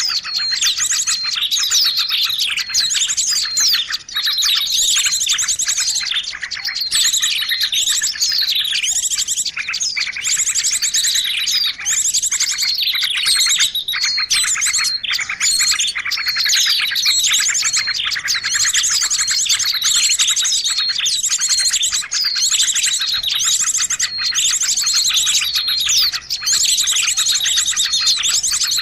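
Noisy chorus of many small birds chirping and calling over one another without a break, a bird-luring (pikat) recording meant to draw in birds of all kinds.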